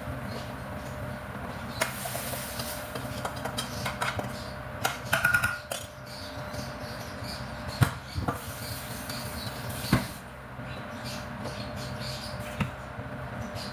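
Kitchen clatter: dishes and utensils knocking and clinking now and then, loudest twice near the end, over a steady low hum.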